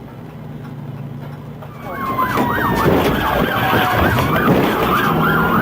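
Police car siren cutting in about two seconds in, in a rapid yelp that rises and falls several times a second, with a second siren sliding more slowly in pitch alongside it. Before it, a low steady engine hum.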